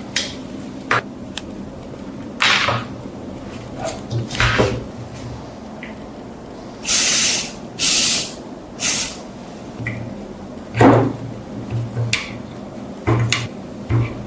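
Three short hissing spray bursts in quick succession, among scattered clicks and knocks of parts being handled in a workshop.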